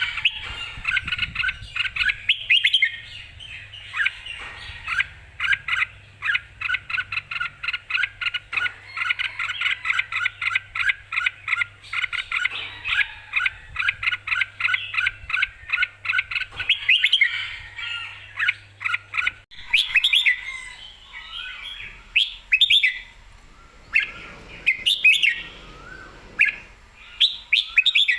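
Red-whiskered bulbul singing: a fast run of short, clear notes, several a second, which gives way about two-thirds through to more spaced, varied phrases.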